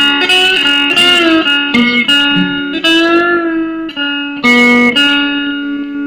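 Nine-string guitar played with a bottleneck slide: plucked notes that ring on and glide up and down in pitch.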